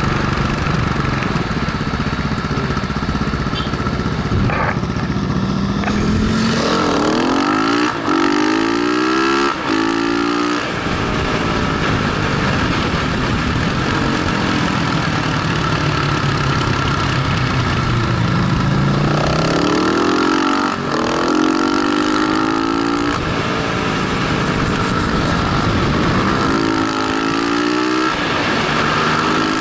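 KTM 690 SMC single-cylinder engine pulling hard and revving up through the gears several times, its pitch climbing in sweeps and dropping back between them, over heavy wind noise at speed.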